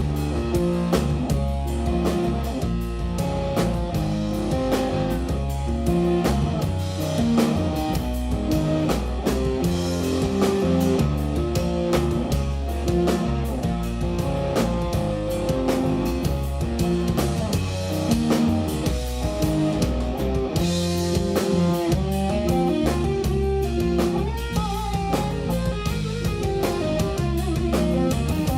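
Live instrumental jazz-rock band playing, with electric guitar over a drum kit.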